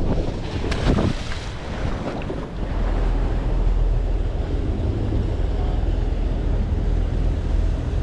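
Wind buffeting the microphone, a steady low rumble, with a couple of brief knocks about a second in.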